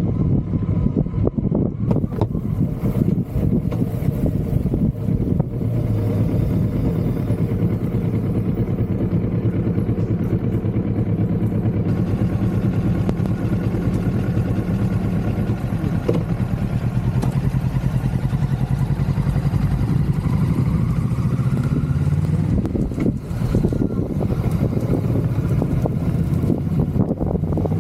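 Kawasaki motorcycle engine running steadily on the ride. Its pitch rises a little about twenty seconds in, and there is a brief dip a few seconds later.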